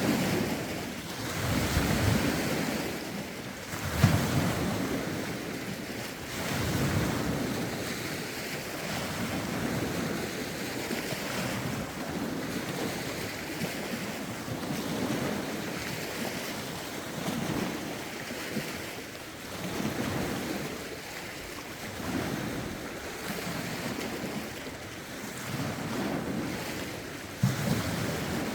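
Lake waves washing against the shore in regular swells every two to three seconds, with wind buffeting the microphone. Two short, sharper knocks stand out, about four seconds in and near the end.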